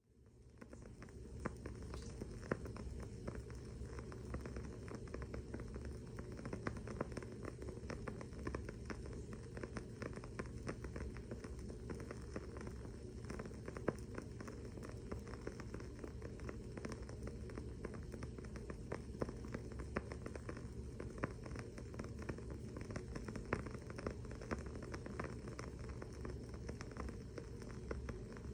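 Wooden-wick candle crackling: a dense run of small quick pops and clicks with an occasional louder pop. The sound fades up from a brief dropout over the first second.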